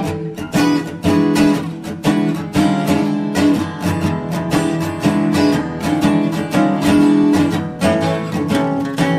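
Background music: acoustic guitar playing a run of plucked and strummed notes at a steady pace.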